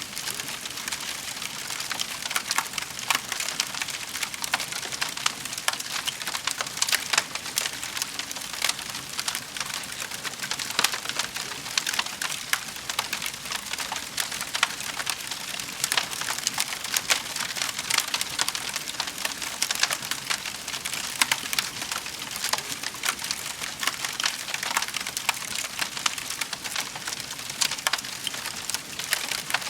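Wood fire in a fireplace crackling: a steady hiss dotted with many quick, sharp pops.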